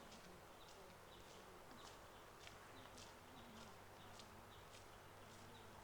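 Faint, short, high-pitched chirps from a flock of small birds, coming several times a second in an irregular pattern over a quiet, steady background hum.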